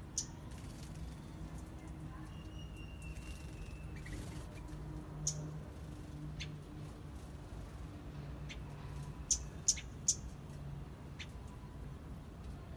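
Small birds giving short, high-pitched chirps, scattered singly, with three loud ones in quick succession about nine to ten seconds in, over a steady low hum.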